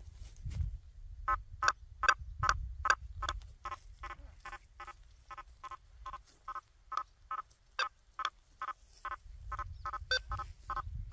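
Quest V80 metal detector giving a rapid run of short target beeps at one pitch, about three a second, as the 9-inch coil is swept over targets. A low rumble sits underneath, strongest at the start and near the end.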